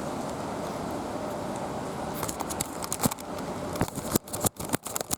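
Steady hiss of heavy rain, then from about two seconds in a run of sharp clicks and crackles with brief moments where the sound cuts out entirely: the camera's audio glitching.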